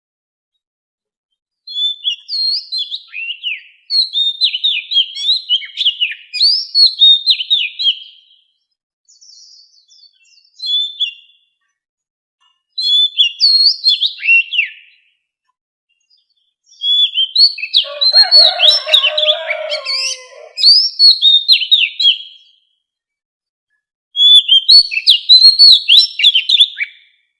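Oriental magpie-robin singing its wild-type song: six bursts of quick, sliding whistled notes, each lasting about two to five seconds, with short silences between them. A lower warbling strand joins the longest phrase in the middle.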